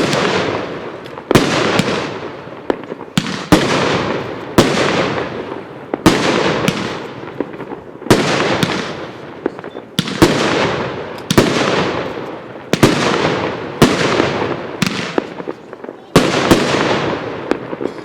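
Consumer fireworks cake ('Mistery Scent') firing shot after shot, about one a second, each a sharp bang followed by a fading rush.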